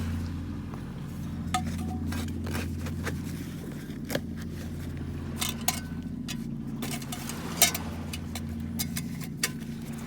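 A steady low engine drone with scattered light clinks and taps over it, one sharper clink about three quarters of the way through.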